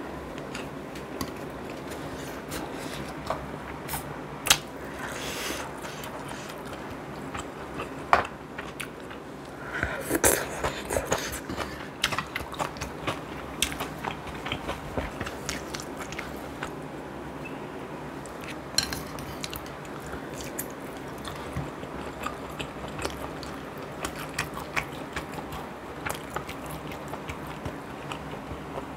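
Close-miked eating sounds: a person chewing and biting food, with scattered sharp clicks and taps, the loudest about 4.5 s, 8 s, 10–11 s and 19 s in.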